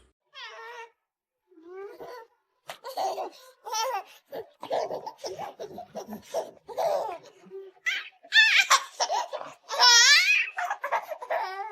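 A person laughing hard in a string of high, wavering fits with short breaks, loudest near the end.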